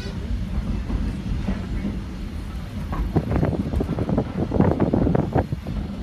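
Riding in a coach of a heritage steam train in motion: a steady low rumble of the car rolling on the rails, with a stretch of louder, irregular rattling and clatter from about three seconds in.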